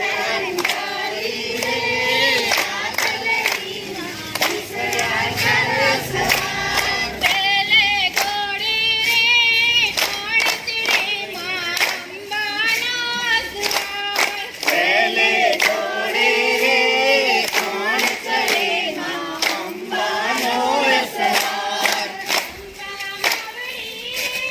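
A group of voices singing a garba song together, with sharp claps keeping an even beat about twice a second.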